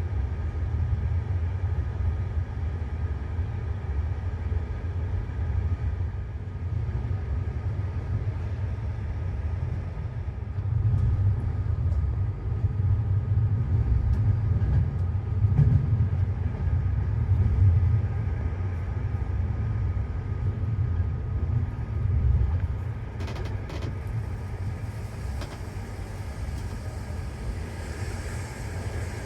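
Steady low rumble of a passenger train running, heard from inside the carriage, with a few faint clicks about three-quarters of the way in.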